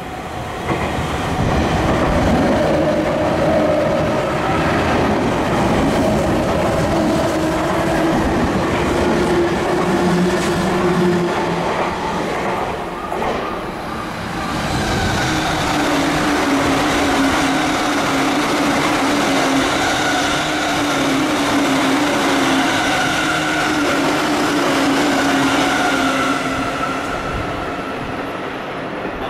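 Electric commuter train running on the line through the station: continuous loud rumble of wheels on rail with steady humming tones, beginning about a second in, easing briefly about halfway through and tailing off near the end.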